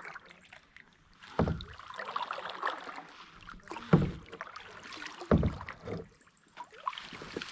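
Water splashing and sloshing around a kayak, with three low hollow knocks spread through the sound.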